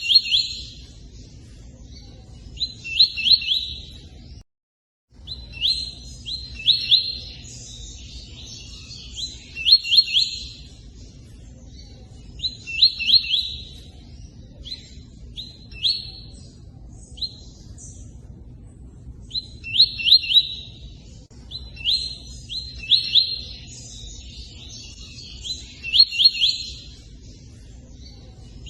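A bird sings in short bursts of several quick, high chirping notes, repeated about every three seconds with a longer pause midway. Steady running water sounds underneath, and all sound briefly drops out about four and a half seconds in.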